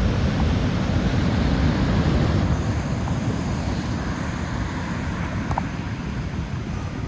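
Rough surf breaking and washing on the shore, with wind buffeting the phone's microphone: a steady rush of noise that eases a little over the last few seconds.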